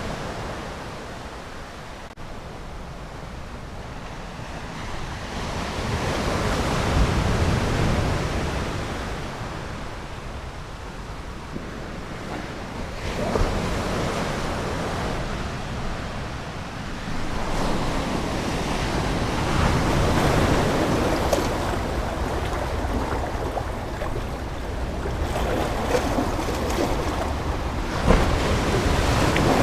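Ocean surf: waves breaking and washing in, the rushing noise swelling and easing back in slow surges every several seconds.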